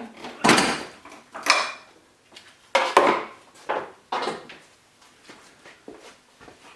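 A series of clunks and scrapes as the freshly removed twin-turbo intercooler is handled and set down, loudest in the first half, then quieter.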